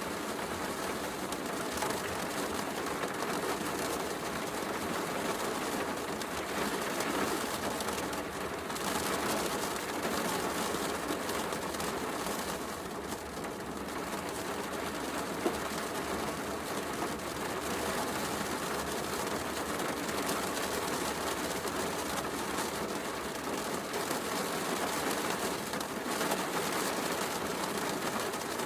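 Steady heavy rain falling, mixed with a crackling wood fire, with one sharper pop from the fire about halfway through.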